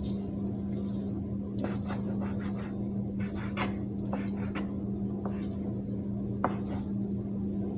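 Irregular light clicks and knocks of kitchen items being handled, with one sharper knock about six and a half seconds in, over a steady low hum.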